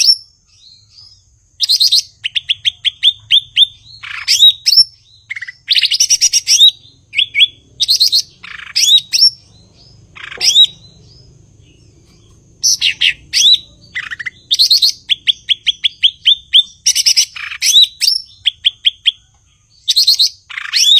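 Cucak ijo (green leafbird) singing in loud, chattering bursts, with fast runs of short rising whistled notes, about eight a second, and a pause of a couple of seconds near the middle.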